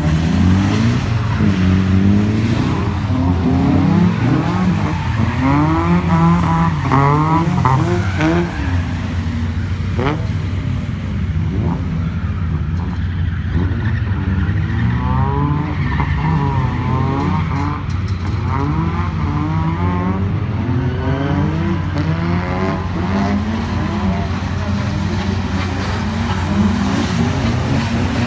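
Several car engines revving up and down as cars drift on a wet skid pan, their rising and falling engine notes overlapping.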